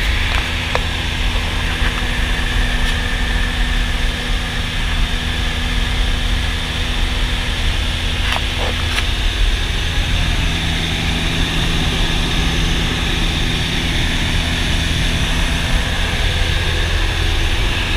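Cessna 172's piston engine and propeller droning steadily in flight, with an even hiss over the top and a couple of faint ticks.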